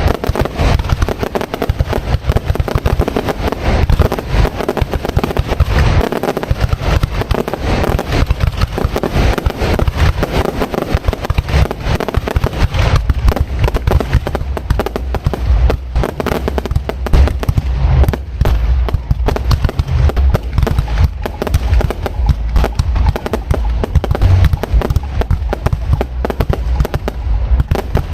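Fireworks display: a dense, unbroken barrage of shell bursts and crackling, many bangs a second.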